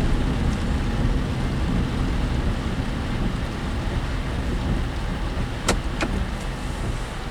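Cabin noise of a moving work vehicle: a steady low rumble of road and engine. Two sharp rattling knocks come about half a second apart near the end, from the work vehicle's loose, rattling body.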